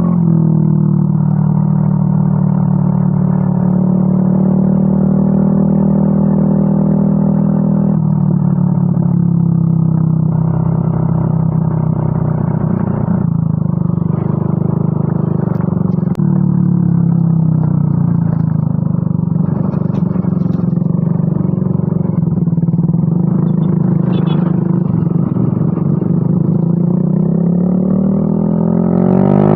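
Yamaha Mio M3 scooter's single-cylinder engine idling steadily through a WRX aftermarket exhaust, with a deep, even exhaust note. It is revved up right at the end.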